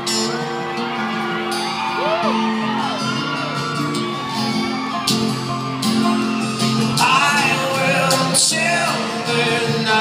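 Live band music: sustained chords held under many voices from the audience, who whoop and shout, louder in the second half.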